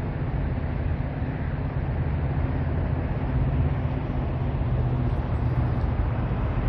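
Steady low engine rumble with a constant low hum.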